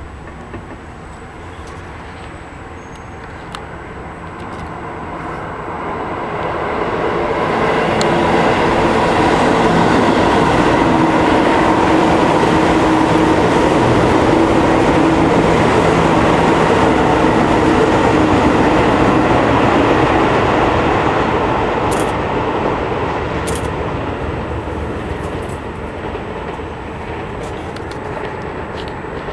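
Zeppelin NT airship's propeller engines passing overhead: a steady drone with a low hum in it that swells for several seconds, stays loud for about twelve seconds, then slowly fades as the airship moves away.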